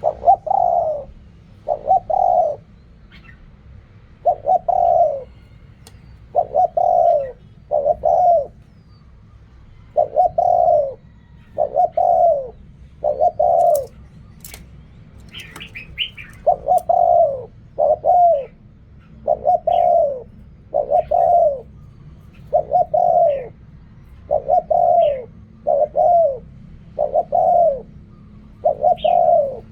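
Spotted dove cooing over and over, its short coo phrases mostly in pairs, each sliding slightly down in pitch. A brief higher chirp comes about halfway through.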